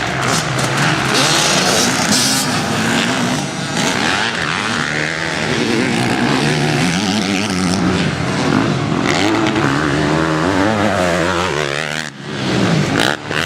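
Motocross motorcycle engine revving hard, its pitch rising and falling over and over as the throttle is worked and gears change, with a brief drop in loudness near the end.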